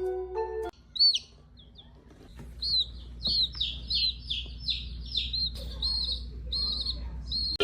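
A bird chirping: a run of short, high chirps, about three a second, starting about a second in.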